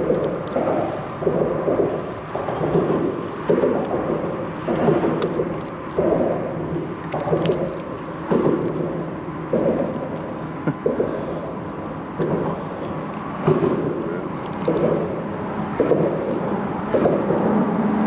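Water splashing and slapping at a kayak in a steady rhythm, about one splash a second.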